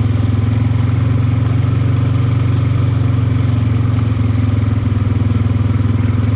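ATV engine running at a steady speed under way, a loud, even drone with no revving up or down.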